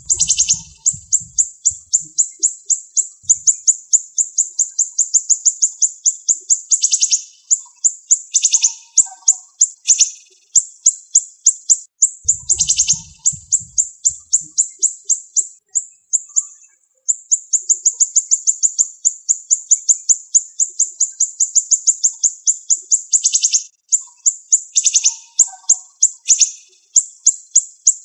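Siri-siri songbird singing in long, fast runs of sharp, closely spaced high notes, each run lasting several seconds before a brief pause. Low thuds show up near the start and again about twelve seconds in.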